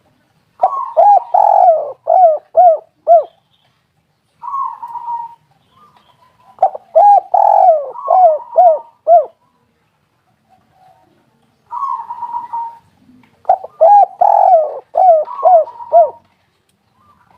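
Spotted dove cooing: three song phrases about six seconds apart. Each phrase is a quick run of five or six short, falling coos, and a softer held note comes before the second and third.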